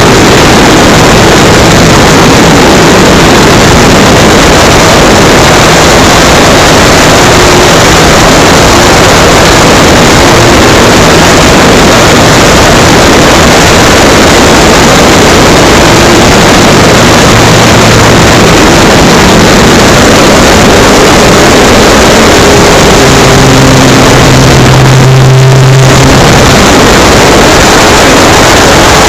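Electric RC model plane in flight, heard from an onboard camera: a loud, overloaded rush of wind and propeller noise over the brushless motor's hum, whose pitch wanders with the throttle. About 23 seconds in, the hum turns stronger and steadier for a few seconds while the rush eases, then the rush returns.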